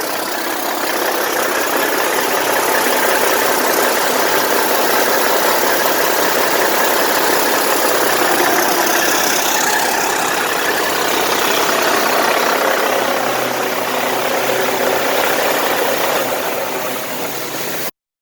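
2002 Caterpillar C15 6NZ 15.2-litre single-turbo diesel engine running steadily on a test run. The sound cuts off abruptly near the end.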